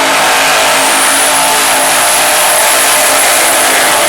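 Twin-turbo Commodore drag car running hard at full throttle, loud and steady, with a thin high whine held above the engine from about a second in.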